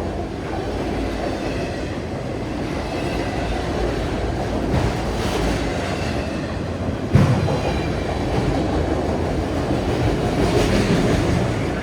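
Freight train cars rolling past, wheels clattering over the rail with a faint squeal, and one sharp bang about seven seconds in.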